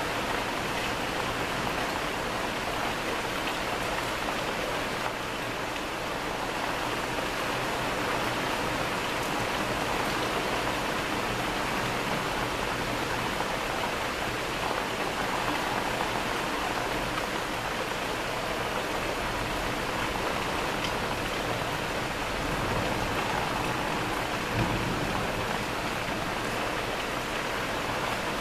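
Steady rain falling during a thunderstorm, an even hiss that holds level throughout, with one brief low thump near the end.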